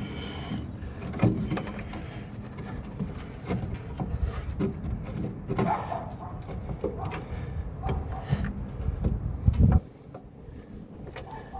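Irregular knocks and clunks of a shock absorber being worked by hand into its mount under a car, with a sharp knock about a second in and a loud thump near the end, after which a low rumble stops.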